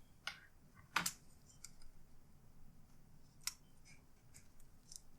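A few sharp clicks and taps of plastic laptop parts being handled and set down, the loudest about a second in and another about three and a half seconds in, with fainter ticks between.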